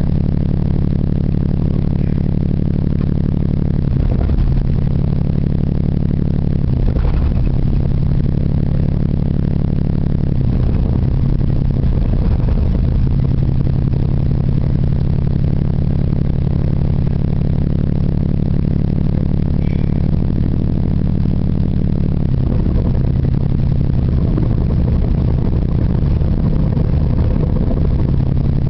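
Geo Metro engine idling steadily, its note stepping slightly up or down a few times.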